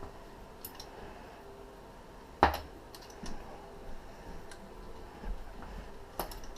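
Scattered clicks and taps of hand tools and engine parts being handled during engine teardown, with one sharp clank about two and a half seconds in, over a faint steady hum.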